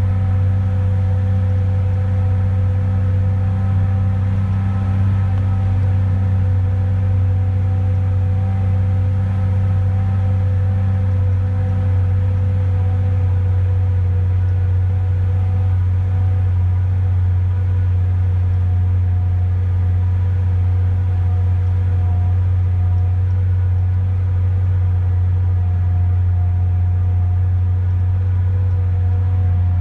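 Car engine running at a steady cruise, heard from inside the cabin as a deep, even drone that holds one pitch.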